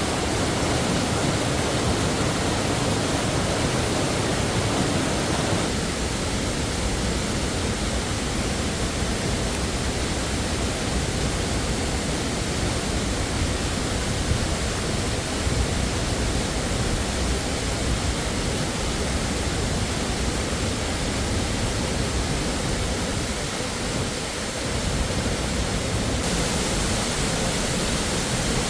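Waterfall rushing steadily close by, a dense, even roar of falling water.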